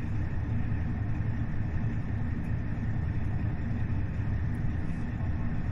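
Steady low rumble inside a KiHa 40 series diesel railcar, with its DMF15HSA diesel engine running.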